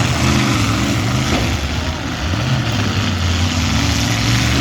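Demolition derby cars' engines running and revving, their pitch rising and falling, over a steady wash of noise.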